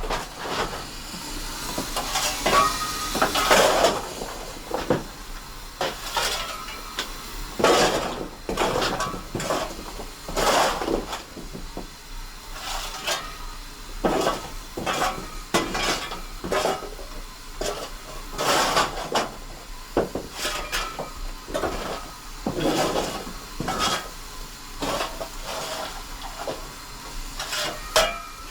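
GWR 6400-class pannier tank no. 6412 shunting coaching stock, with irregular clanking of buffers and couplings over a steady hiss of steam.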